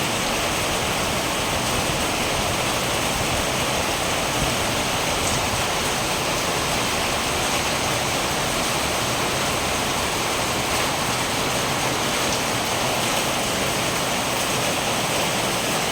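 Steady rain falling, moderate and not heavy.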